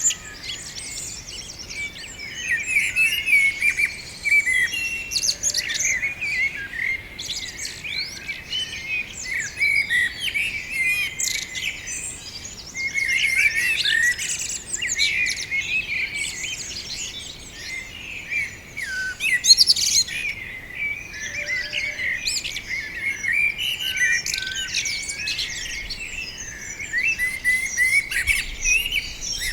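Many small birds chirping and twittering together in a dense, unbroken chorus of quick high notes. A faint low rumble comes in near the end.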